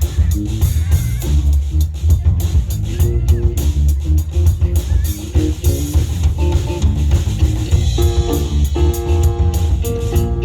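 Live funk band playing: a driving electric bass line and drumkit groove, with guitar. Held pitched notes from another instrument grow stronger about eight seconds in.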